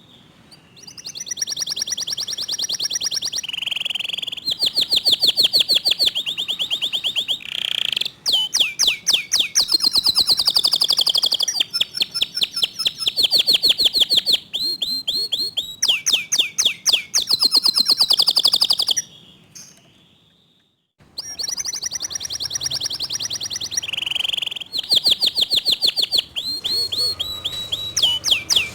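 Local domestic canary singing in long phrases of very fast, tightly packed repeated notes and trills, with a pause of about two seconds roughly two-thirds of the way through.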